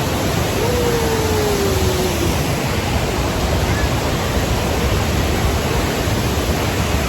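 Steady rush of falling water from Kuang Si waterfall. A voice gives one drawn-out call, slowly falling in pitch, about a second in.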